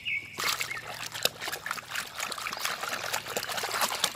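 Water trickling and splashing irregularly as a muddy plastic toy vehicle is rinsed and handled in water.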